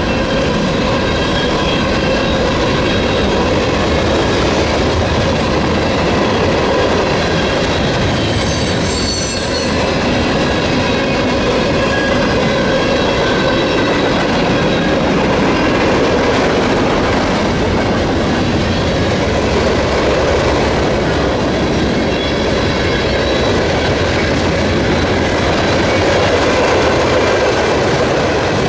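Freight train cars rolling past at steady speed: loud continuous wheel-on-rail rumble with clickety-clack and thin, steady squealing tones from the wheels.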